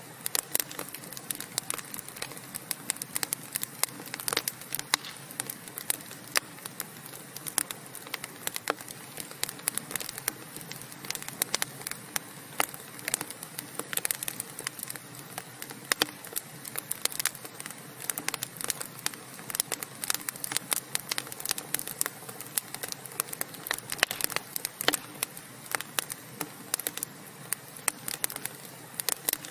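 Wood fire crackling and popping: many irregular sharp snaps over a steady soft hiss of burning logs.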